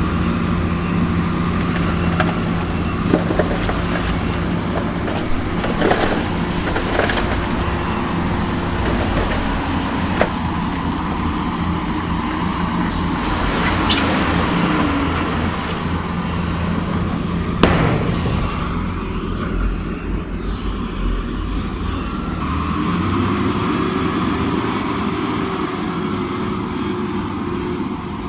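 Heavy diesel construction machinery running steadily, with scattered metallic knocks, a brief hiss about halfway through and one sharp bang about two-thirds through. Near the end an engine note rises and holds.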